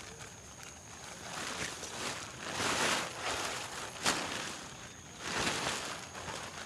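Repeated swells of rustling noise, each lasting about a second, with one short sharp click about four seconds in, over a faint steady high tone.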